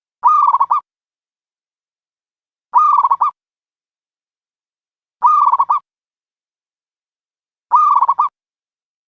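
A dove's cooing call, a short rolling coo repeated four times at even intervals of about two and a half seconds: a lure call for dove trapping.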